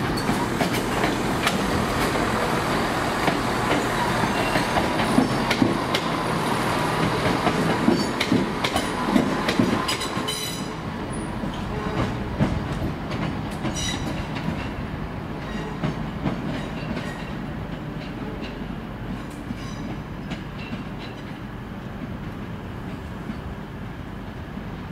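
A CrossCountry Class 170 Turbostar diesel multiple unit running through, its wheels clicking over rail joints and points. The clicks are loudest in the first half, then the sound fades slowly as the train draws away.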